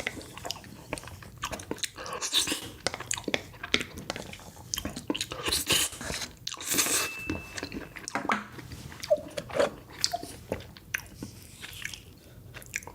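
Close-miked mukbang eating: a person biting into and chewing chocolate desserts, with many sharp crunches and wet mouth clicks.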